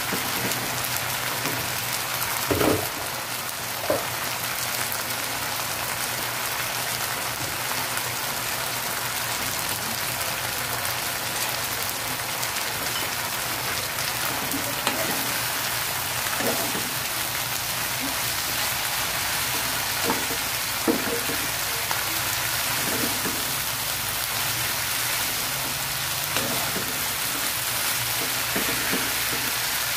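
Long beans and fried tofu sizzling in oil in a frying pan, a steady hiss, with occasional knocks and scrapes of a spatula tossing them.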